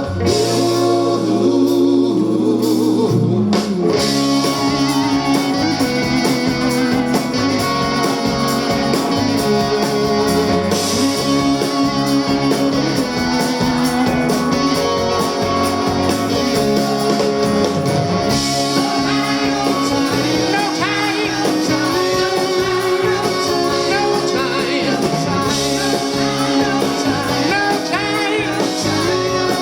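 Live rock band playing, led by guitar.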